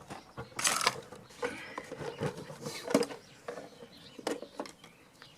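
Light knocks and clicks of small wooden birdhouse pieces being handled and set down during glue-up, with a short rustle about a second in.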